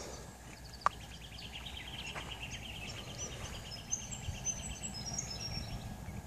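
Birds calling: a fast, even trill of chirps lasting about four seconds, with higher, sliding chirps over it. One sharp click comes about a second in, over a low steady outdoor rumble.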